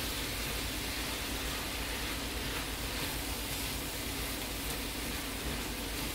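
Chicken, potatoes and red onion sizzling steadily in a cast iron skillet on a stovetop burner, over a steady low hum.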